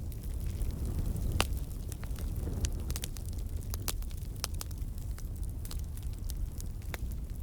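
Campfire burning: a steady low rumble of flames with sharp, irregular crackles and pops from the burning wood, the loudest pop about a second and a half in.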